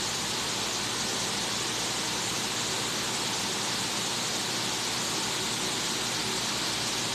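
Steady, even hiss with no changes or distinct events, brighter in the high range.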